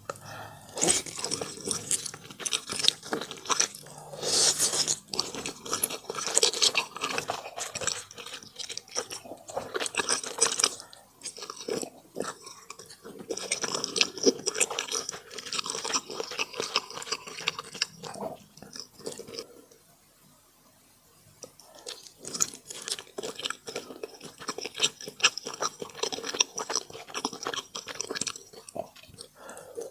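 A person chewing and crunching food in irregular, crackly bites, with a short pause about two-thirds of the way through.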